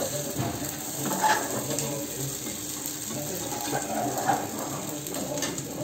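Rice-batter chilla frying in oil in a pan, sizzling steadily, with a flat metal spatula scraping under its edges to loosen it.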